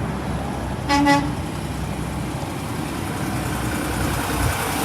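A truck's horn gives one short toot about a second in, over steady passing road traffic.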